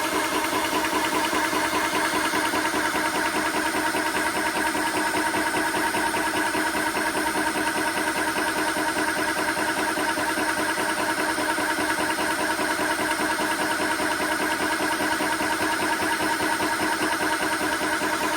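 TOAUTO A1X portable high-pressure PCP air compressor running steadily, its piston pump chugging with a fast, even pulse and a steady hum.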